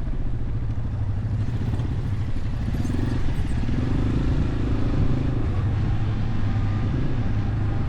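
Motorcycle engines running steadily while riding, with a low engine hum and a slight rise and fall in pitch around the middle.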